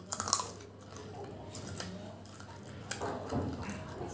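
Close-up mouth sounds of someone biting and chewing desi chicken, with a few sharp crunches about a quarter second in, then softer wet chewing.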